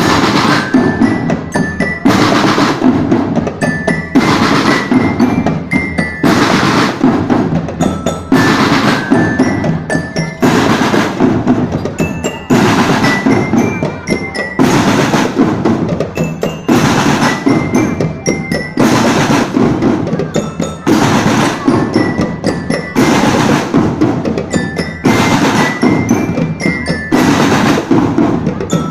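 School marching drum band playing: snare and bass drums beat out a rhythm, with a glockenspiel (bell lyra) picking out short high notes over them. The pattern repeats about every two seconds.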